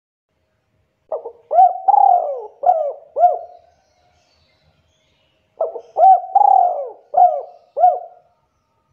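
Spotted dove (tekukur) cooing in the 'deruk' style: two phrases of about five hoarse coos each, the first starting about a second in and the second after a pause of about two seconds. It is a lure call meant to set caged doves calling back.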